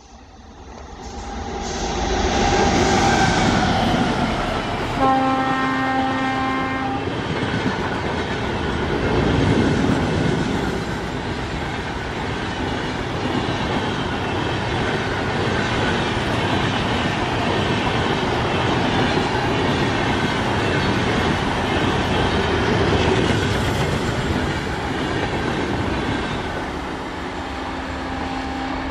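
WAG-9 electric locomotive with an express train of LHB coaches passing at speed: the noise builds over the first couple of seconds as it approaches, and about five seconds in the horn sounds one long blast of about two seconds. After that the coaches' wheels keep up a steady rolling clatter on the rails, and a faint steady tone comes in near the end.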